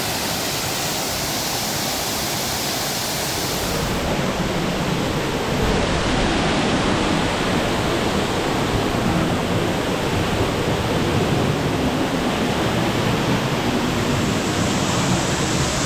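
Large waterfall pouring: a loud, steady rush of falling water. It grows fuller and a little louder about four seconds in.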